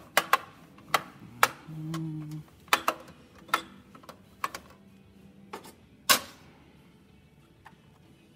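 A dozen or so sharp, irregular clacks and knocks of hard objects being handled at an espresso machine, with a brief low hum about two seconds in.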